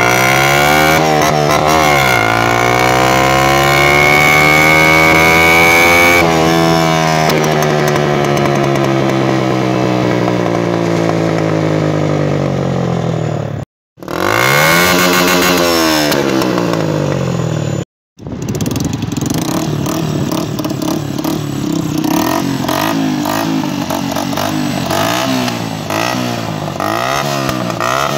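Asya AS 100 single-cylinder motorcycle engine through a homemade, fully gutted exhaust, revved up and held, then let fall slowly, twice. Over the last ten seconds the throttle is blipped rapidly again and again, the revs swinging up and down with a rough, crackly exhaust note.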